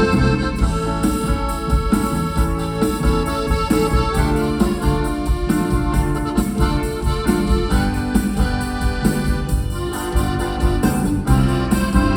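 Live band playing an instrumental break between sung verses, led by an electronic keyboard with an organ-like sound over a bass line and a steady beat.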